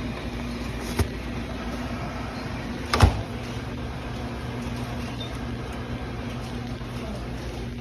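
Tanker truck's diesel engine idling steadily, with a short knock about a second in and a louder knock about three seconds in.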